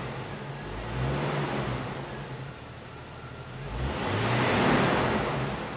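1999 Jeep Wrangler's 4.0-litre straight-six, warmed up to temperature, being revved briefly twice from idle. The engine note rises and falls each time, and the second rev, about four seconds in, is the louder.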